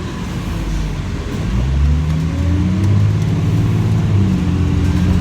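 A city transit bus's engine heard from inside the cabin, pulling away: its low drone climbs in pitch and gets louder about a second and a half in, then runs steadily.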